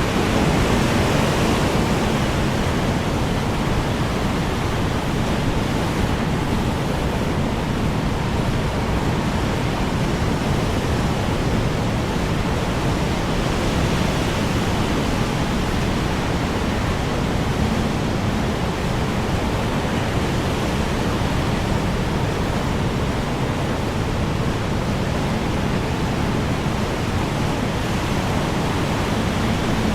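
Strong wind blowing in a loud, steady, even rush, swelling slightly in the first couple of seconds.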